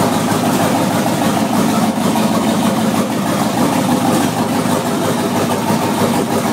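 Twin-turbo 5.3-litre LS V8 idling steadily on E85 during its first run. It holds a fairly even idle on a basic first tune that still needs adjustment.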